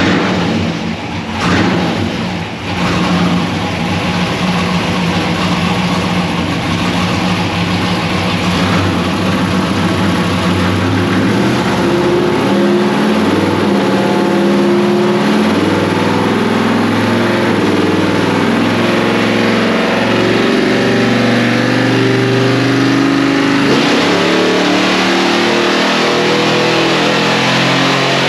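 1961 Ford gasser truck's engine running hard on chassis dyno rollers during a power run, loud and continuous; the level is uneven for the first couple of seconds, then holds steady.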